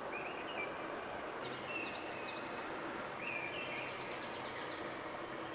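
Small birds chirping faintly over steady outdoor background noise: short chirps several times, with a quick run of ticks about three and a half seconds in.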